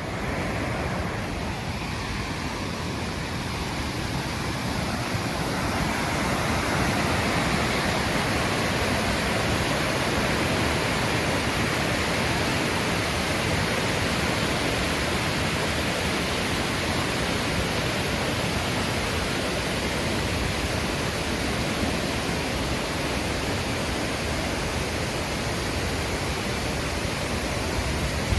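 Oshinkoshin Falls, a waterfall, pouring steadily: an even, unbroken rush of falling water that grows slightly louder over the first few seconds.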